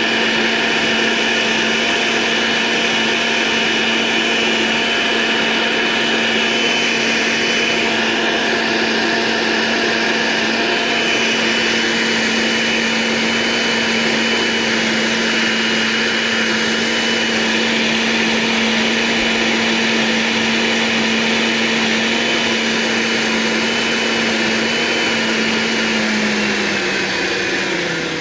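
A small electric motor running steadily at high speed, with a constant hum and a high whine; near the end its pitch sags and it gets slightly quieter.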